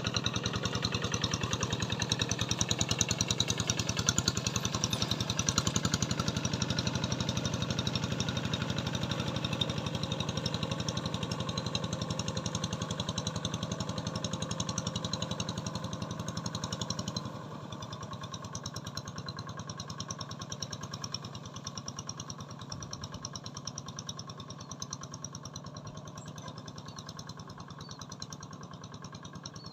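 A small engine running steadily at an even speed, dropping noticeably quieter about two-thirds of the way through.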